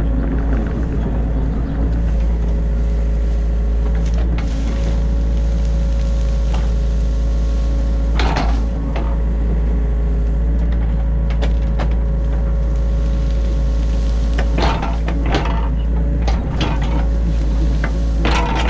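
New Holland E50.2 mini excavator's diesel engine running steadily, heard from inside the cab, with a deep rumble and a steady hum. Short knocks and clanks come every few seconds as the machine works the ditch.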